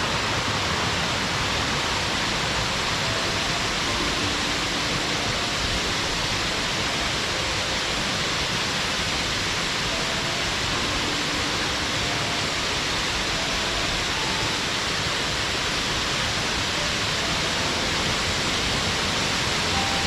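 Steady rush of a mountain waterfall, water pouring and splashing in an even hiss that does not change.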